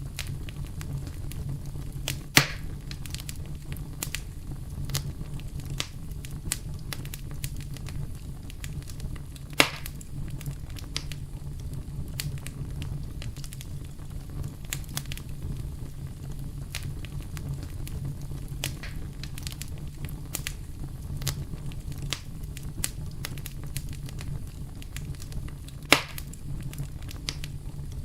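Wood fire burning with a steady low rumble and continual crackling, broken by three loud sharp pops from the burning wood.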